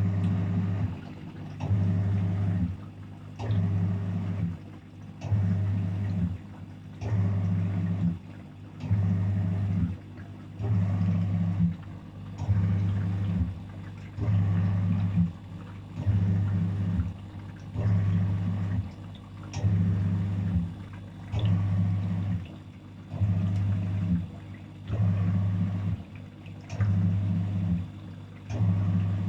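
Daewoo DWF-806 WPS washing machine on its wash cycle: the drum motor hums in short, even pulses, about one every second and three-quarters, as it turns the drum with water inside.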